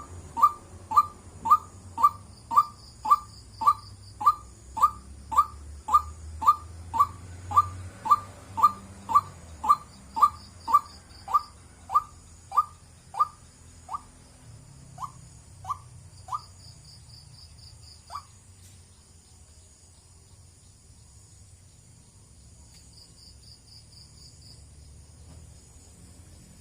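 White-breasted waterhen calling its repeated 'wak' note, about two calls a second, slowing and stopping a little over halfway through. After that, insects or crickets trill faintly, with short pulsed chirps every few seconds.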